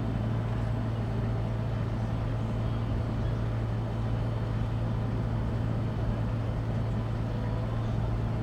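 Boat engine running with a steady low drone and a constant hum.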